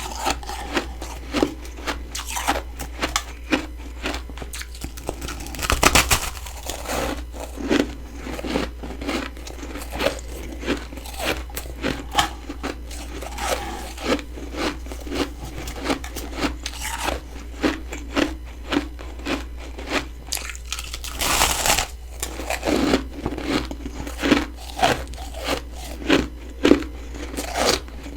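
Close-miked crunching and chewing of freezer frost: a steady run of short, crisp crunches and crackles, with louder bites about six seconds in and again about two-thirds of the way through.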